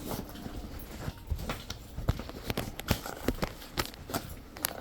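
Footsteps: a run of short, irregular knocks a few times a second.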